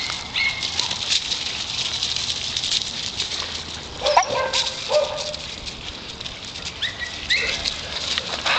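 A group of dogs in a yard, with two short barks about four and five seconds in, shorter higher calls around them, and scattered light clicks and scuffs of movement.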